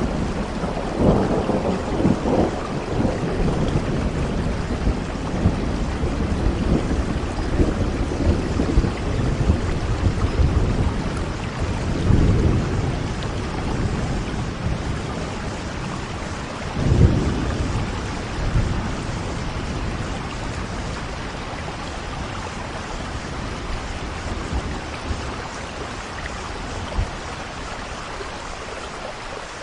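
Heavy rain falling steadily with rolling thunder in a thunderstorm. The thunder rumbles in low surges, loudest in the first few seconds and again about twelve and seventeen seconds in, then fades to a softer grumble under the rain.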